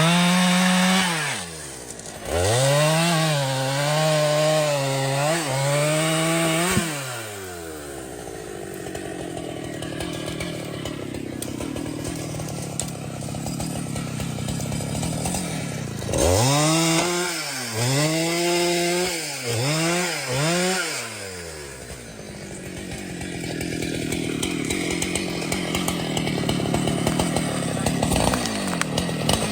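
Two-stroke chainsaw running at high revs in two long stretches, with short dips in pitch where the engine bogs and picks up again. Between them it drops back to a lower, quieter, uneven running note.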